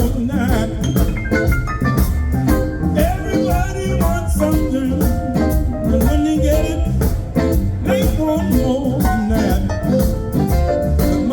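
Live blues band playing an upbeat groove: drums keeping a steady beat under bass and a melodic lead line.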